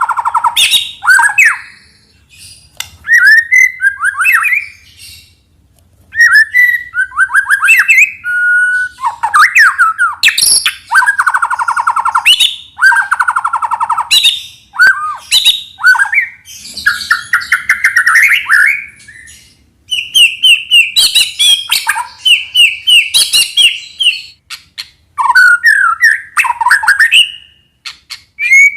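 White-rumped shama (murai batu) singing: a loud, varied song of clear whistles, fast trills and rising and falling phrases, delivered in bursts with short pauses between them.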